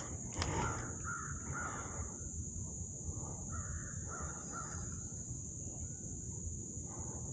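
A bird calling in short runs of repeated calls, a run about a second in and another around four seconds in, over a steady high-pitched drone.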